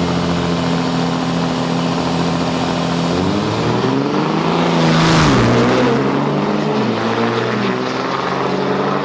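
Drag-racing diesel trucks running: the engines run steadily at first, then about three seconds in their pitch starts shifting as they launch down the strip. The sound is loudest about five seconds in as they pass, and the engines run on at a lower pitch afterwards.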